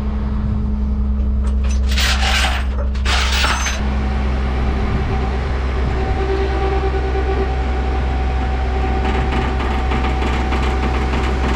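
Ford F700 dump truck's engine running at a steady, loping idle from its big cam, with two short bursts of hissing noise about two and three seconds in.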